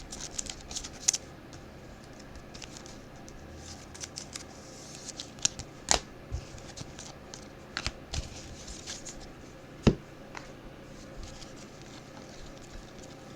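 Trading cards being handled and sorted by hand: scattered light scrapes and sharp clicks, two of them louder, about 6 and 10 seconds in.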